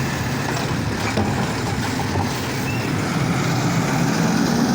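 Garbage truck's engine running steadily, getting a little louder near the end.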